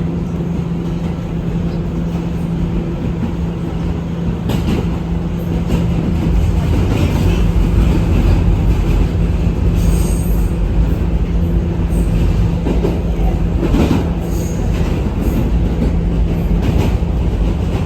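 New York City Subway R211 train running along the track: a steady low hum with wheel-on-rail rumble that grows louder about six seconds in. Brief high wheel squeals come near the middle and again about fourteen seconds in, with a few knocks over the rails.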